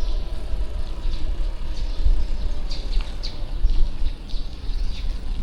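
City street ambience heard from a moving bicycle: a steady low rumble of traffic, with short high chirps scattered through.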